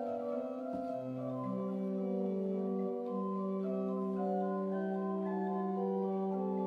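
Organ playing slow, sustained chords, with a low held bass note that enters about a second and a half in.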